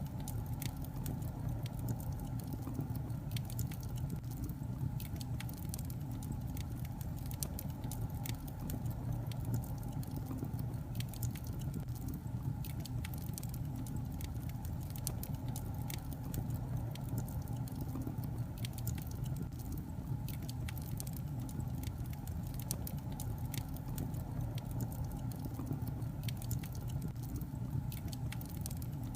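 Wood logs burning in a fireplace: steady low rumble of the fire with many irregular sharp crackles and pops.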